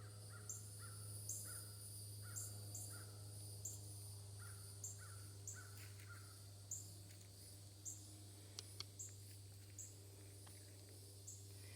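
Wild birds calling, faint: a quick series of short calls for about the first six seconds, and a high, short call repeated about once a second throughout, over a low steady hum.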